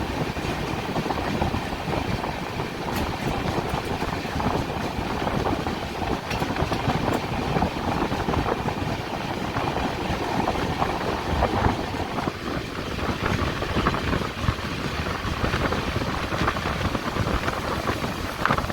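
Moving passenger train heard from on board: steady rumble and clatter of the wheels on the rails, mixed with rushing air.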